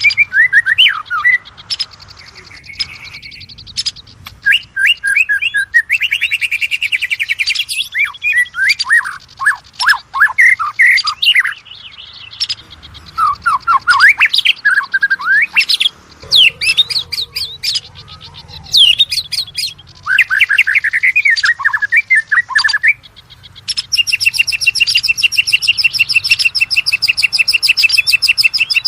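Oriental magpie-robin (kacer) singing: a varied run of loud whistled phrases, fast up-and-down sweeps and chattering notes. Near the end the song changes to a rapid, even trill that is held for the last few seconds.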